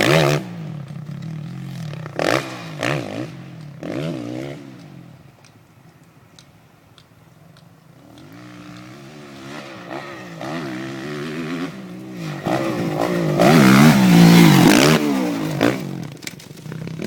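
Kawasaki KX450F dirt bike's single-cylinder four-stroke engine revving up and down with the throttle as it is ridden round a motocross track. It falls away to a low level about five seconds in, then builds again to hard revving near the end.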